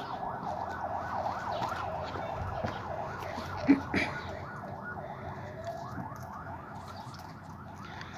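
An electronic siren-like alarm tone with rising sweeps repeating several times a second, slowly fading, and a short knock a little before halfway through.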